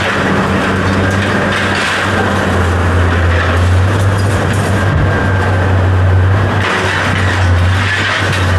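A steady low machine hum with rough noise over it, from an engine or motor running continuously.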